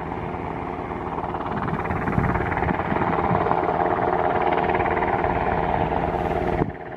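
U.S. Coast Guard helicopter flying low nearby, a steady rapid rotor chop over engine whine, growing a little louder, then dropping away abruptly near the end.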